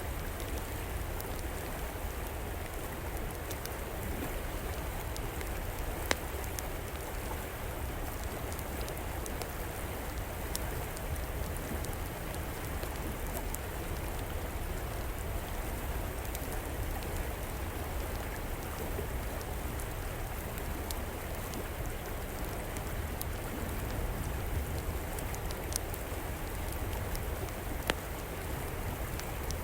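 Steady rushing of a flowing river, with a few sharp pops and crackles from a wood fire, the loudest about six seconds in and near the end.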